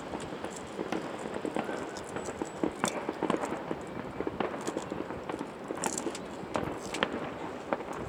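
Fireworks going off in a display: many sharp pops and crackles at irregular intervals.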